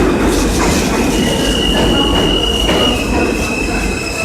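R160 subway car running along the track, heard from inside: a loud steady rumble with a high-pitched wheel squeal that holds one pitch from about a second in and drops slightly just before three seconds.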